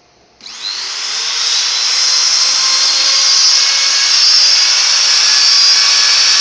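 A small CNC router's 530 W spindle motor starts about half a second in. Its whine rises quickly as it spins up, then runs steady and loud at full speed.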